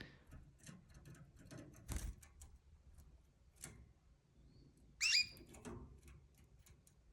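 Two pet birds scuffling: scattered light clicks and taps, with a brief high squeaky call of two or three quick chirps about five seconds in.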